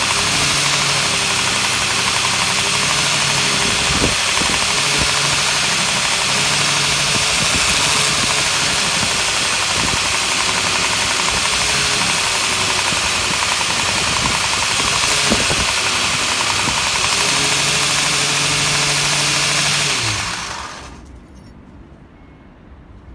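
Home-made belt grinder driven by an angle grinder, running with a loud, steady whine and hiss; its pitch wavers slightly, with a couple of brief knocks. About 20 seconds in it is switched off and spins down.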